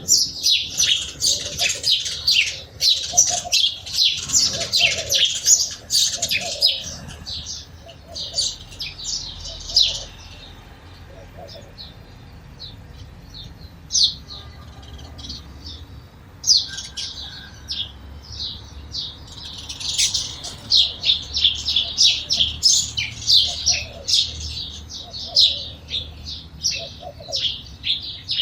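A flock of sparrows chirping: many short, high chirps overlapping in quick succession. The chirping thins to scattered calls for several seconds in the middle, then grows dense again.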